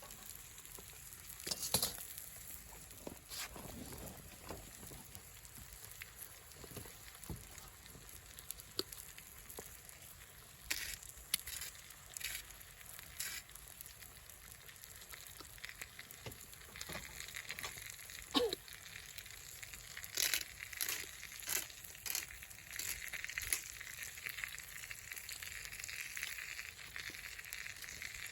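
Food frying in a pan over a campfire: a steady sizzle with scattered sharp pops and crackles, the sizzle growing denser a little past the halfway point.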